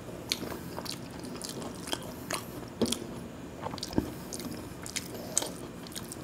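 Close-miked eating: a person chewing khichuri and fried fritters eaten by hand, with short irregular clicks throughout and a sharper one about four seconds in.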